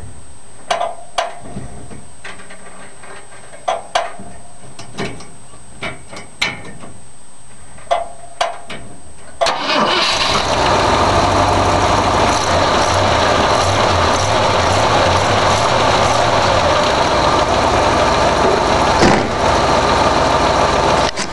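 A few scattered clicks and knocks, then about nine seconds in the freshly rebuilt 1965 Ford 352 FE V-8 starts and runs steadily.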